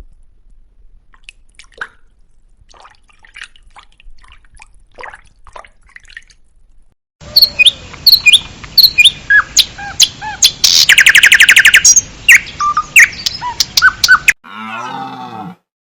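Small birds chirping: faint at first, then loud, busy chirps and whistles from about seven seconds in, with a fast buzzing trill in the middle. Near the end a lower, drawn-out animal call takes over.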